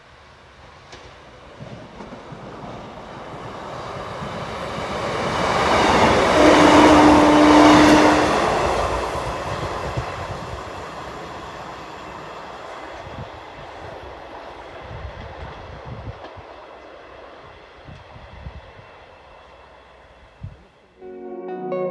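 Two-car Class 156 diesel multiple unit passing at line speed: its underfloor diesel engines and wheels on the rails build up to a peak about six seconds in, with a steady tone for about two seconds at the loudest point, then die away as it recedes, with wheels knocking over the rail joints.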